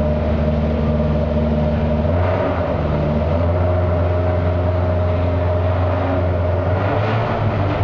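A rally car engine idling steadily with a low, even beat. Its pitch shifts slightly about two seconds in and again near the end.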